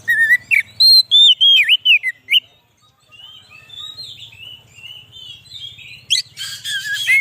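Oriental magpie-robin singing: loud, clear whistled phrases that slide up and down, then softer warbling, with a harsh rasping call about six seconds in before the whistles start again.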